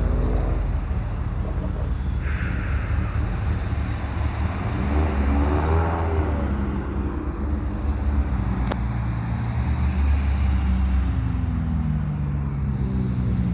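Car engines running loud, one rising and falling in pitch about halfway through and another dropping in pitch near the end, with a single sharp click a little past halfway.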